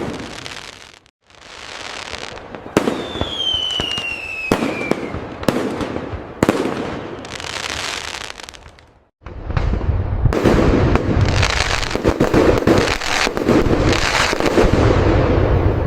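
Fireworks exploding: separate aerial bursts trailing into crackle, with a falling whistle about three seconds in. From about nine seconds a dense, loud barrage of booms and crackling carries on without pause.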